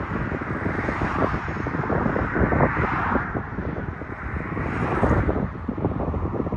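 Wind buffeting the microphone: a rough, gusting rumble that swells and eases every second or two.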